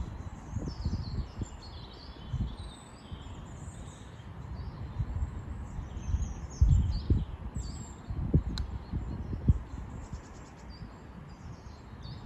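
Small birds chirping and calling repeatedly over irregular low rumbles and thumps, with a single sharp click about eight and a half seconds in.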